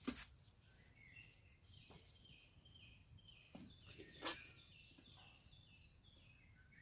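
A small bird singing faintly, a run of short repeated chirping notes, with a few soft knocks.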